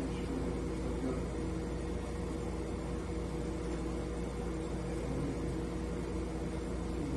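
A steady machine hum with a few constant tones, unchanging throughout.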